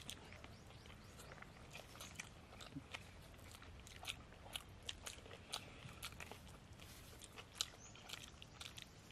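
Close-miked eating: faint, irregular wet clicks and crunches of chewing mutton biryani and fried Chicken 65, several small mouth sounds a second, with one sharper crunch about three-quarters of the way through.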